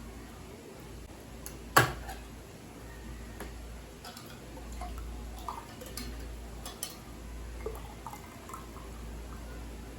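Scattered light clinks and knocks of kitchenware, with one sharp knock about two seconds in.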